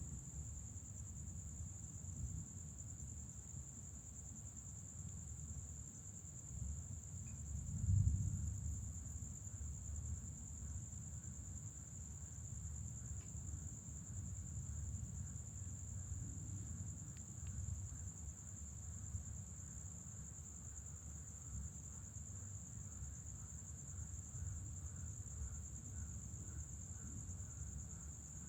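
A steady, high-pitched night insect chorus over a low rumble of distant thunder, which swells loudly about eight seconds in.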